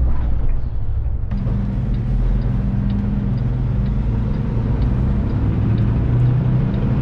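Semi truck's diesel engine running steadily while driving, heard from the cab, with the turn signal clicking about every two-thirds of a second.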